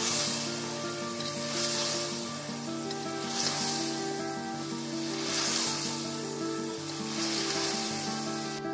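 Food sizzling as it fries in hot oil, the sizzle swelling and easing about every two seconds, with background music of held instrumental notes underneath. The sizzling cuts off abruptly near the end while the music continues.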